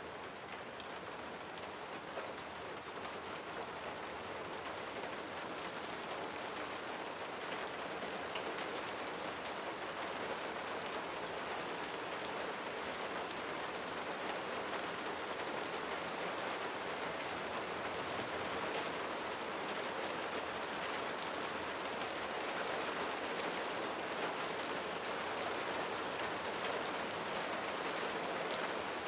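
Steady rain falling, a dense patter of drops, slowly growing louder.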